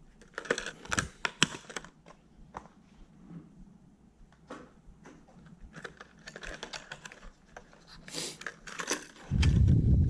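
Plastic lure packaging being handled and opened: scattered clicks and crinkles. About nine seconds in, a loud low rumble starts and lasts a second or so.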